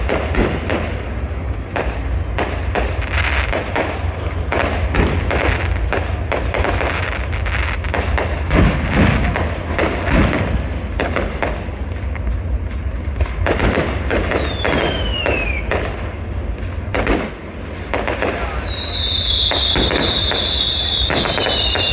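Fireworks going off: a rapid, irregular string of bangs and crackles, a falling whistle about fifteen seconds in, and a loud, high hissing whistle from about eighteen seconds on, over a steady low rumble.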